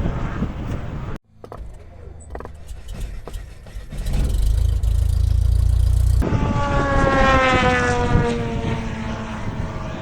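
Model aircraft engines heard across edited clips. The loudest, in the second half, is a propeller-driven model aircraft passing by, its engine note falling steadily in pitch as it goes past.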